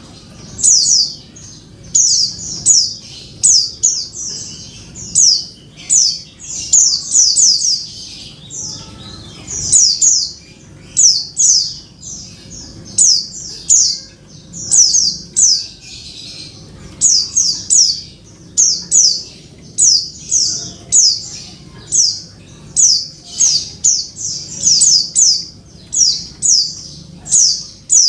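Female white-eye (pleci) calling to a male: short, high, downward-slurred notes in quick clusters of two to four, repeated throughout.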